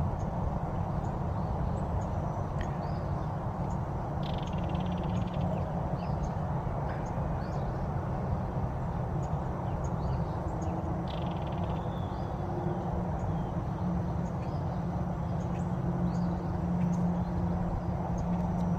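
Belted kingfisher giving its dry rattle call twice, each rattle about a second long, over a steady low rumble, with faint high chirps of small birds.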